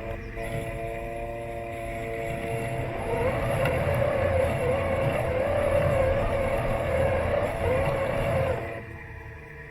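Robot lawn mower's electric motors running with a steady whine. From about three seconds in a louder hum with a wavering pitch joins, dropping away shortly before the end.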